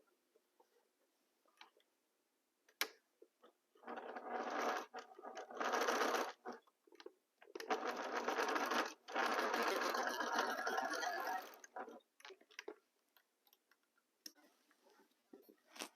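Sewing machine stitching fabric squares together in two runs: one of about three seconds, then a longer one of about four seconds with a brief stop partway through. A few light clicks come before and after the runs.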